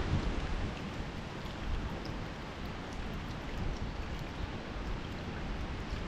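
Wind rustling through the forest leaves in a steady rushing hiss, with low rumbling wind buffeting on the microphone.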